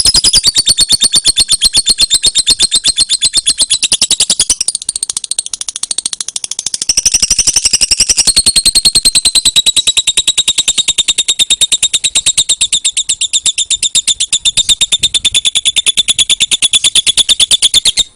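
Lovebird giving its long 'ngekek' chatter: a rapid, unbroken run of shrill, high-pitched chirps that goes on for many seconds, softening briefly about five seconds in before picking up again.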